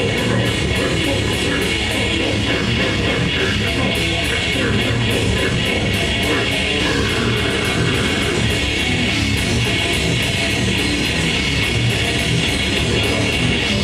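Grindcore band playing live at full volume: dense distorted guitars and bass over fast drumming, with cymbal hits a few times a second.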